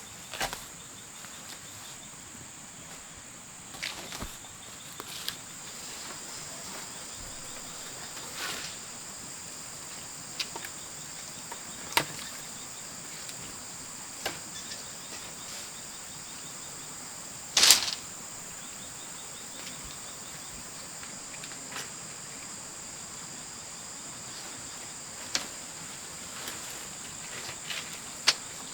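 A steady, high-pitched insect chorus, crickets or similar, with scattered sharp knocks and clicks, the loudest about two-thirds of the way through.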